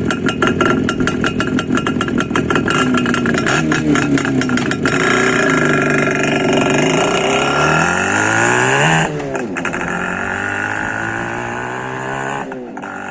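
IZH Planeta 5 single-cylinder two-stroke motorcycle engine, its muffler baffles removed, pulling away under load: the exhaust pitch climbs as it accelerates, drops at a gear change about nine seconds in, climbs again and drops once more near the end.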